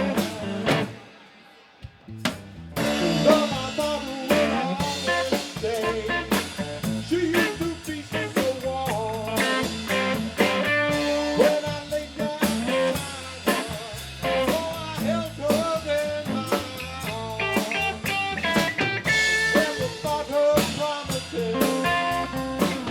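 Blues-rock band playing live on drum kit and guitar. About a second in the music drops almost to silence; a sharp drum hit brings the band back in, and it plays on steadily.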